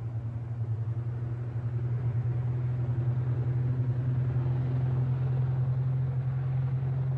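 A 1930s BMW car's engine running steadily as the car drives along a road, with a low rumble that grows louder over the first few seconds as the car approaches.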